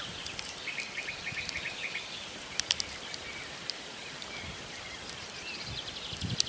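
Wood fire of burning logs hissing, with sharp crackles and pops; a few loud pops come just under three seconds in. Small birds call: a quick run of short, even notes about a second in, and high twittering near the end.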